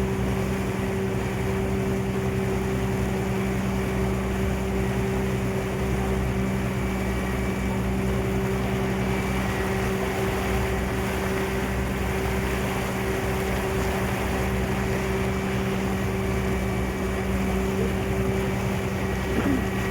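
Sternwheeler ferry's engine running steadily under way: a constant low drone with a steady hum over an even rushing noise.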